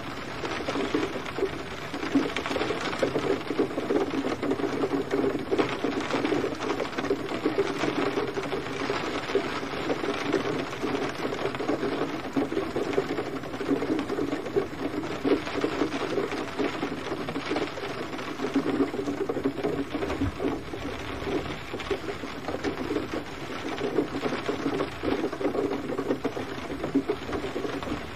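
Steady rain: a dense, unbroken fall of many small drop impacts.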